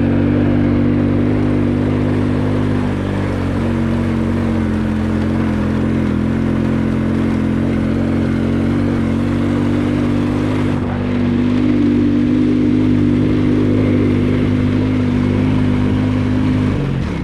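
Vehicle engine running steadily under way at an even pitch, which drops briefly near the end as it slows or shifts.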